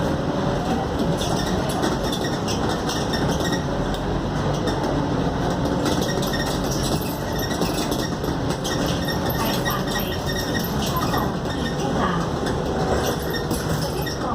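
Interior of a Scania K280UD double-decker bus under way. The diesel engine and road noise rumble steadily, panels and fittings rattle and clink, and a faint whine slowly rises and falls in pitch.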